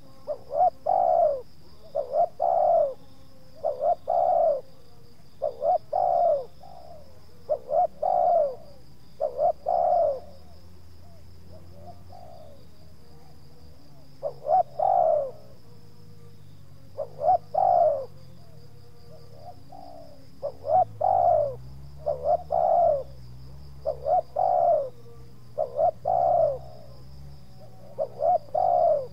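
Spotted dove cooing: phrases of a couple of short notes followed by a longer one, repeated every couple of seconds with two short pauses. A faint steady high-pitched tone runs underneath, and a low hum rises and falls in the second half.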